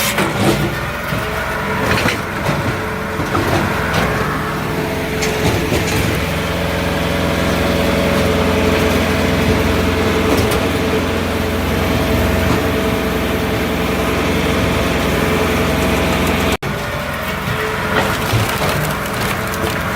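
Multitek 1620SS firewood processor running on its 44-horsepower diesel engine, with a steady engine drone and irregular cracking and splintering of wood as logs are split.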